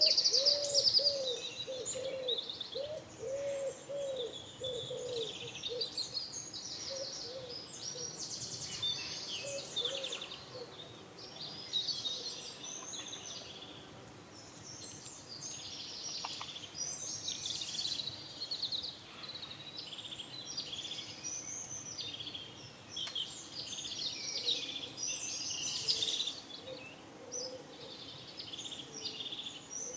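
A chorus of small songbirds chirping and trilling throughout, with pigeons cooing in a run of repeated low notes over the first few seconds and faintly again near the end.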